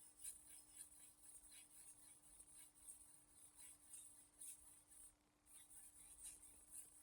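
Faint, quick strokes of a knife blade (a Dalstrong Shogun Series X) being rubbed across a Shapton Glass whetstone, about two to three a second, with a brief pause about five seconds in. A faint steady hum lies under it.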